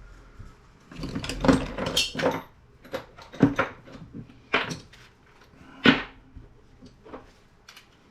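Small metal scrap parts and components clinking and knocking as they are handled and set down on a work surface: a cluster of clatters, then single knocks about a second apart.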